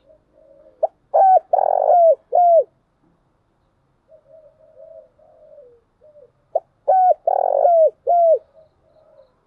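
Spotted dove cooing: two song phrases, each a few soft murmured notes followed by three or four loud, ringing coos, the first about a second in and the second about six and a half seconds in.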